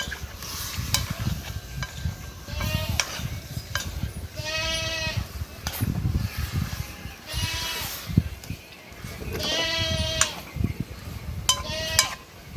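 Livestock bleating, about six calls roughly two seconds apart, the longest lasting close to a second, over a steady low rumble.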